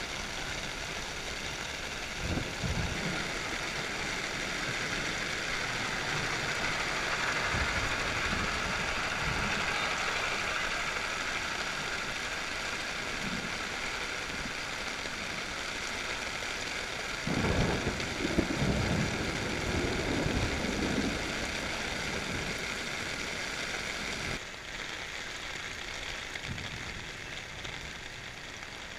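Creek in flash flood: a steady rush of fast-flowing floodwater, with a few low thuds and a louder rumbling stretch a little past the middle. The rush drops abruptly in level near the end.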